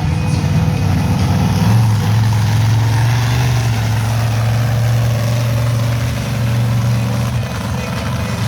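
Monster truck engine running loud and steady, its note dropping a little about two seconds in and then holding.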